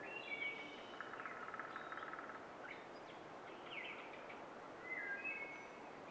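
Songbirds calling: short whistled phrases near the start and again about five seconds in, a rapid trill from about one to two and a half seconds, and a few quick chirps around four seconds, over a steady background hiss.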